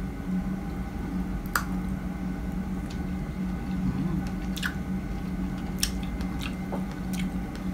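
A person chewing and biting fresh strawberries close to the microphone: wet, squishy mouth sounds with several sharp clicks, over a steady low hum.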